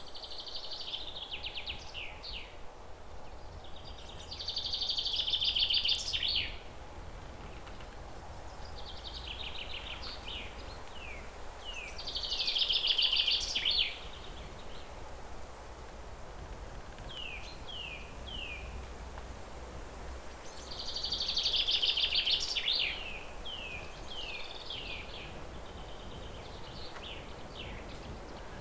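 A songbird singing the same phrase over and over: a dense, buzzy trill ending in a few quick falling notes. Loud phrases come about every eight seconds, with softer falling notes between them, over a steady low background noise.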